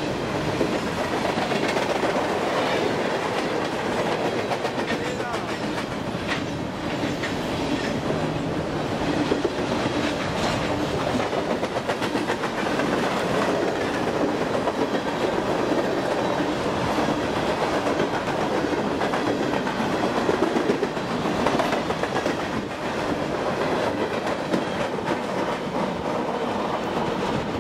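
Coal train's hopper cars rolling past on the rails: a steady rolling wheel noise with scattered clicks and knocks as the wheels pass over the track.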